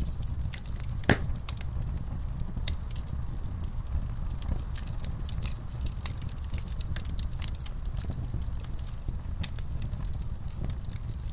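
Wood fire in a fireplace crackling, with irregular snaps and pops over a low steady rumble of the flames; one louder pop about a second in.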